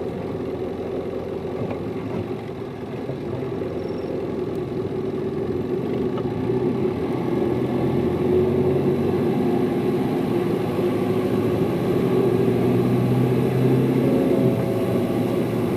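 Hino Liesse bus's diesel engine running, heard from inside the cabin, getting louder a few seconds in and then holding steady as it pulls.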